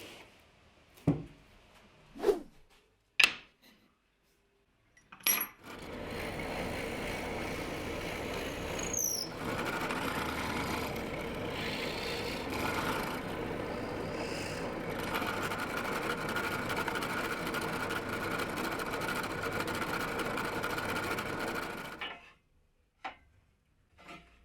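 A few separate knocks on wood, then a power tool runs steadily for about sixteen seconds and stops, with two more short knocks near the end.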